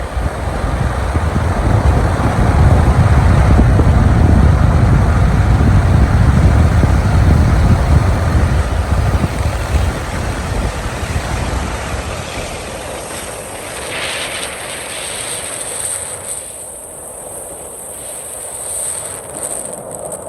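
Cuyahoga Valley Scenic Railroad passenger train passing: a heavy rumble of the train on the rails builds over the first couple of seconds, holds, and fades away after about ten seconds. A high steady buzz continues after it has gone by.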